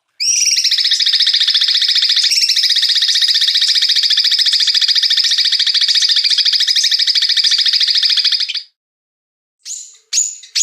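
A songbird's harsh, very rapid buzzing trill, held unbroken for about eight seconds, then after a short pause two brief calls near the end.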